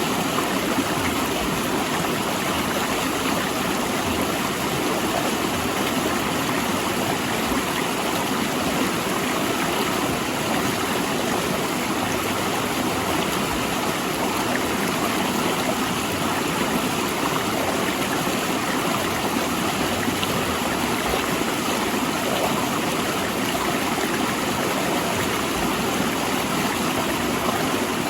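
River water rushing steadily over and between large rocks: a constant, even rush with no breaks.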